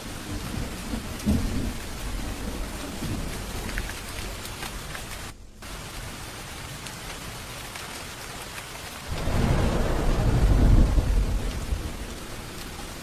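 Steady rain falling in a thunderstorm, with a long low roll of thunder rising about two-thirds of the way in and fading near the end. The sound briefly drops out for a moment just before halfway.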